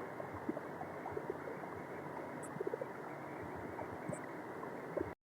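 Faint steady background noise with scattered small clicks, cutting off suddenly near the end.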